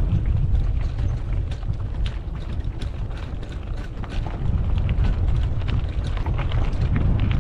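Wind rumbling on the microphone during a mountain bike ride on a dirt road, with scattered ticks and rattles from the bike and the ground under the tyres.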